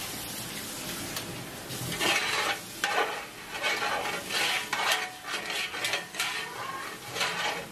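Thick masala paste sizzling in oil in a metal pot on high heat, being fried until the oil separates. A spoon scrapes and stirs it against the pot, in repeated strokes from about two seconds in.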